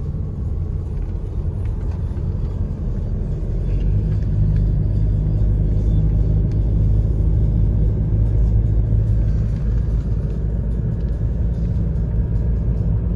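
A vehicle being driven: a steady low engine and road rumble that grows louder about four seconds in.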